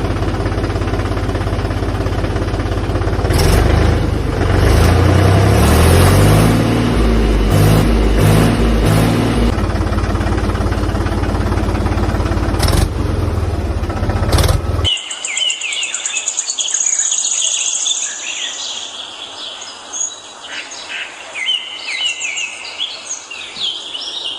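A loud, steady, low engine-like rumble with low notes stepping up and down cuts off abruptly about fifteen seconds in. After it, birds are chirping.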